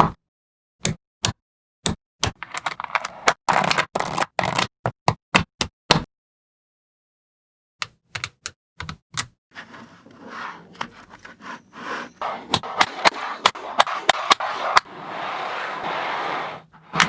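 Small neodymium magnetic balls clicking sharply as they snap onto one another, one click at a time at first, then in quick runs mixed with a rattling, scraping sound as strings of balls are rolled and pushed along each other. About six seconds in there is a pause of nearly two seconds with no sound.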